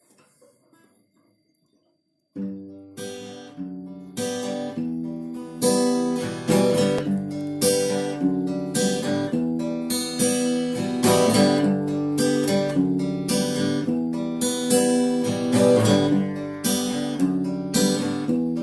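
Acoustic guitar strummed, playing a song's intro without vocals. It starts suddenly a little over two seconds in, after a few faint soft sounds.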